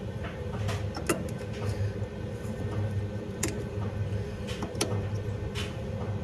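A few light clicks and knocks of motor parts being handled during reassembly of a washing machine's brush motor. Under them runs a steady low hum that swells and fades at an even pace.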